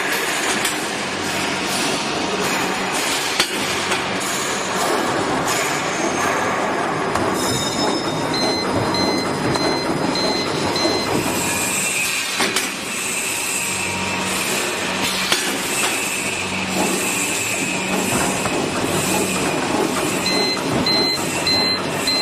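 Plastic bag cutting machine running: a steady mechanical clatter with a few sharp knocks. Twice a run of short, evenly spaced high beeps sounds over it.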